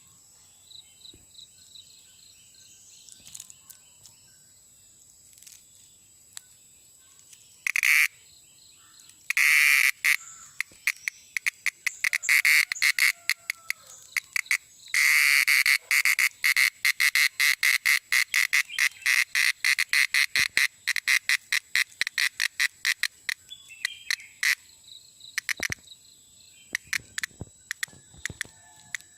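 Cicada calling: short buzzing bursts, then a long run of rapid pulsed buzzing that breaks up into scattered pulses near the end. A thin steady high tone runs underneath.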